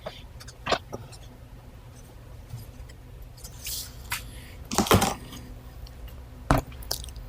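Parts and packaging of a garage door opener kit being handled: a few sharp clicks and knocks and a short rustle over a low steady hum.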